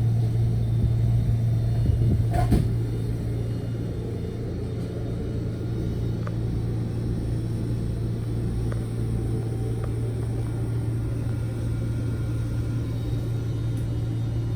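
Steady electrical hum and low rumble of a Toyama Chihō Railway electric train standing at the station, with a single sharp knock about two and a half seconds in.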